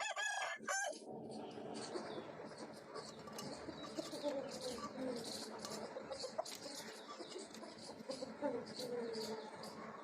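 Aseel chickens clucking and calling, opening with a short, high-pitched call in the first second and with low, sliding clucks later on.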